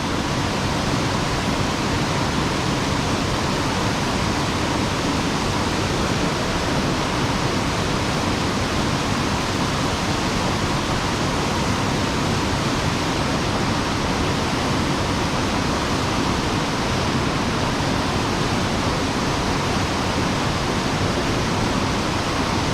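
Steady, unbroken rush of mountain-stream water pouring and tumbling over rocks.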